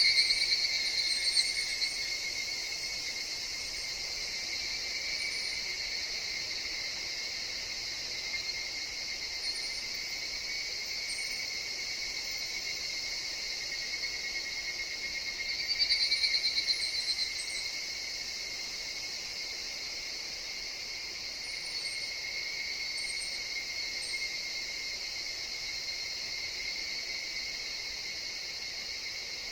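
Chorus of higurashi evening cicadas in a forest: a steady high insect trill, with louder pulsing calls swelling up at the start and again about halfway through. Faint short high chirps come in now and then.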